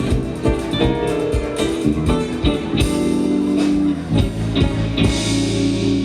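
Band music with guitars and drums. About halfway through, a chord is held, and near the end a cymbal rings over it.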